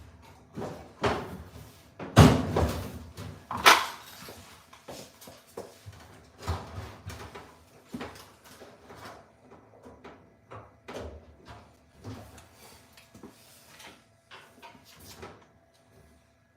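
Irregular knocks and clunks of objects being handled, the two loudest about two seconds and three and a half seconds in.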